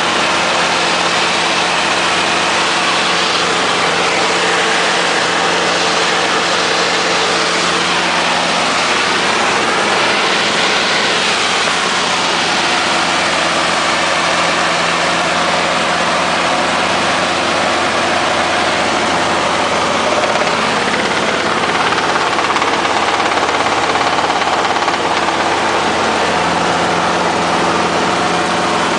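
Helicopter in flight: loud, steady engine and rotor noise with a hum of several pitches. The hum weakens about a third of the way through and comes back strongly near the end.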